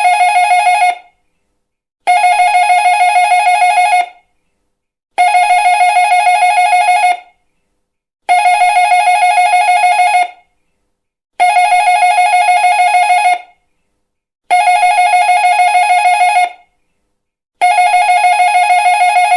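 Doorbell ringing in repeated bursts of about two seconds, with a fast pulsing ring inside each burst. The bursts come about every three seconds, with a one-second gap between them.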